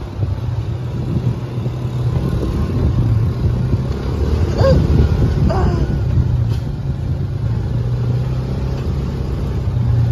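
UTV engine running steadily under way, a continuous low hum with the level rising and falling a little. Two short pitched sounds come about halfway through.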